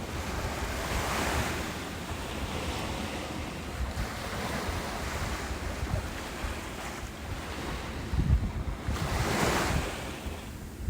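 Ocean waves breaking and washing up a beach, swelling and easing, with a larger wave surging in about eight seconds in. Wind buffets the microphone with a low rumble.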